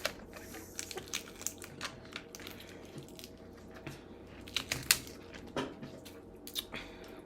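Crab shells being cracked and eaten close to the microphone: irregular sharp cracks and crunches with chewing between them, a few louder cracks a little past the middle.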